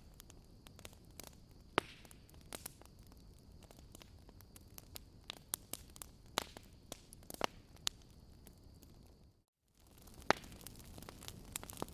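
Wood fire crackling in a fireplace: irregular sharp pops and snaps over a low hiss. The sound drops out completely for a moment about nine and a half seconds in, then comes back with a loud pop.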